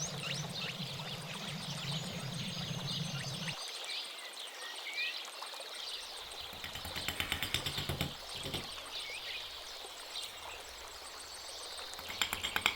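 Small birds chirping, with many short rising and falling calls. A low hum cuts off about three and a half seconds in. A rapid run of ticks comes about halfway through, and a louder one near the end.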